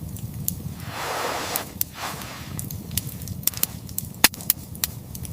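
Campfire crackling, with sharp pops at irregular intervals over a low steady rumble.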